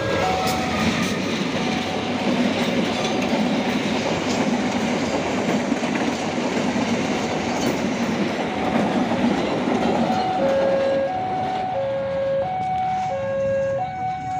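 Argo Parahyangan passenger train passing close at speed, its wheels clattering over the rails as the coaches go by; the rolling noise eases off about ten seconds in as the last coach passes. Under it and then plainly after it, the level-crossing warning alarm keeps sounding, stepping back and forth between two tones about every half second.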